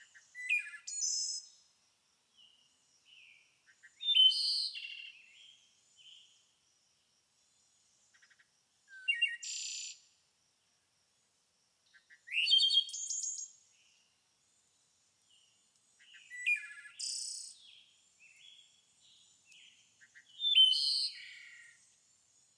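A songbird singing short, high, quickly varying phrases, about one every four seconds, each lasting a second or two, with near quiet between them.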